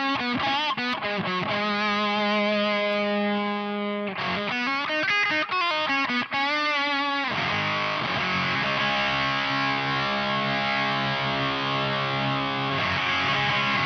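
Electric guitar through an Ibanez Metal Charger distortion pedal: bent and held distorted notes, a quick run of picked notes about four seconds in, then a long sustained chord from about seven seconds in.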